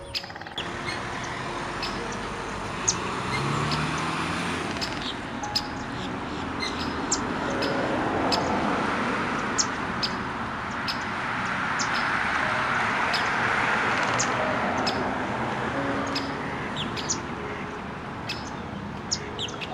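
Outdoor ambience: small birds chirping, many short high calls scattered throughout, over a steady background rush that swells around the middle.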